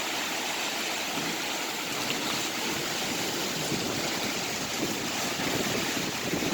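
Steady rush of storm water and tropical-storm rain, a little louder near the end.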